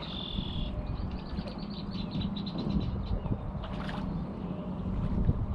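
A small songbird sings a high held note followed by a rapid trill of repeated notes, over a steady low rumble of wind and water. There is a brief splash-like sound a little after the middle.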